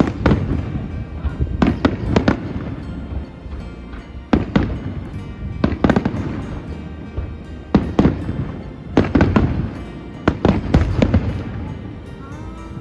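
Aerial fireworks shells bursting in a rapid, irregular series of deep bangs, some in quick pairs, over a continuous low rumble.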